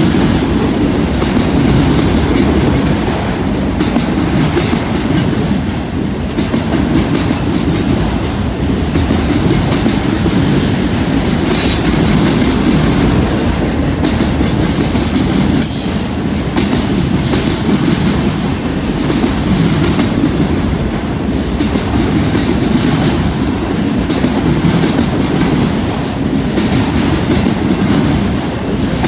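Freight train of enclosed autorack cars rolling slowly past: a steady rumble and clatter of steel wheels on the rails, with a couple of brief high-pitched sounds near the middle.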